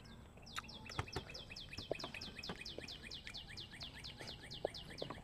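A bird singing a long, rapid trill of high, downslurred notes, about seven a second, starting about half a second in and stopping just before the end. A few soft mouth clicks of eating sound underneath.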